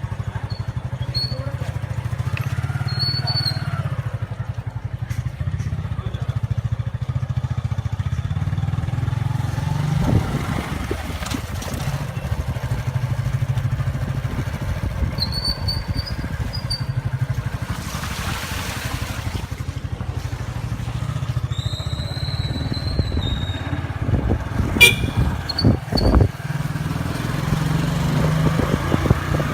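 Motorcycle engine running steadily while riding, with wind rushing past for a moment, a few short high-pitched chirps, and a sharp click near the end.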